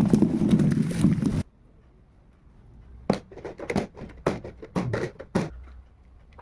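A loud steady rushing noise that cuts off abruptly about a second and a half in, then a run of sharp knocks and clatters of kitchen items being handled and set down.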